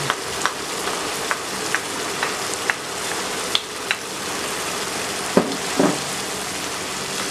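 Chicken in masala sizzling steadily in a non-stick kadhai as yogurt is poured in, with scattered sharp pops. About five seconds in, a wooden spoon starts stirring, and two knocks against the pan are the loudest sounds.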